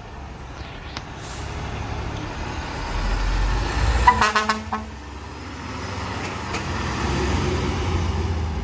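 Fire truck engine running and pulling away, swelling twice, with a short pulsing horn blast about four seconds in.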